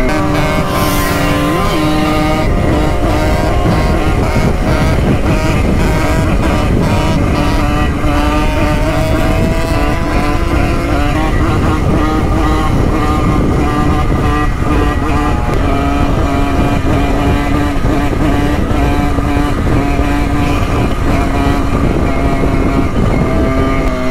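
Simson moped two-stroke engines running steadily under way, their pitch dipping and rising a little with throttle, over a heavy low wind rumble.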